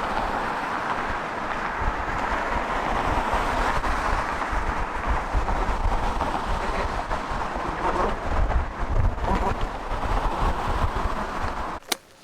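Steady rushing noise of a moving vehicle, with wind buffeting the microphone in an uneven low rumble. It cuts off suddenly near the end.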